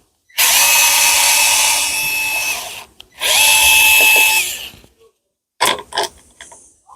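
Cordless drill running in two bursts of about two seconds each with a steady motor whine, driving out screws to take off the mower's throttle control. A few short clicks of parts being handled follow near the end.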